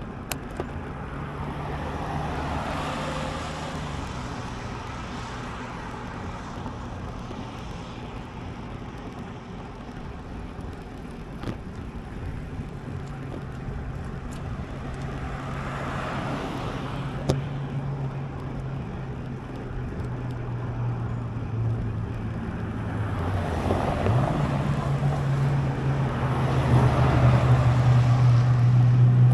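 Motor vehicle traffic on the road: a steady engine hum with cars passing by, and the engine growing louder near the end as a vehicle comes closer.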